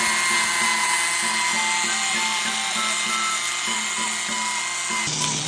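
Mini grinder running with a steady high-pitched whine, which stops about five seconds in. A simple stepping melody of background music plays over it.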